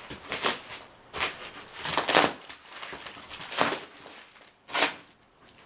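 Packaging from a large parts box being handled and pulled apart: a run of separate rustling, crinkling bursts about a second apart, the loudest around two seconds in, dying down near the end.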